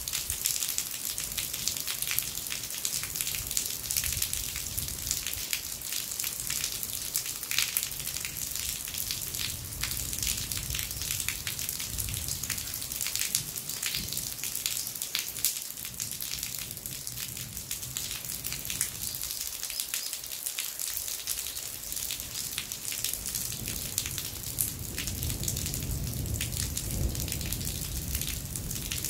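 Rainwater falling from the tiled eaves of a Korean temple roof in steady rain: a dense, even patter of drops splashing, with a low rumble swelling in the last few seconds.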